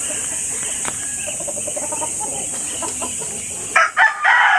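A rooster crowing loudly, starting near the end, over a steady high-pitched hiss.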